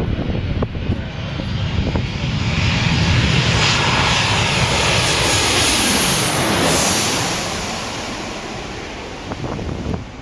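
American Airlines jet airliner flying past on its landing approach: engine noise builds to a loud peak mid-way, its pitch sliding downward as it passes, then fades away.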